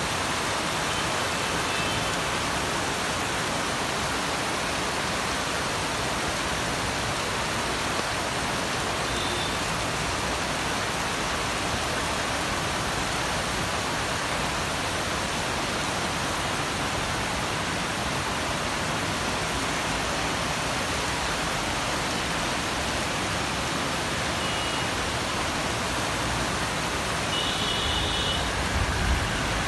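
Heavy rain pouring down steadily, a dense even hiss. A few faint short high tones sound now and then, and a low rumble rises near the end.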